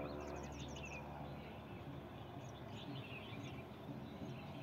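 Small birds chirping: a quick run of short, high calls near the start and another about two and a half seconds in, over a steady low hum.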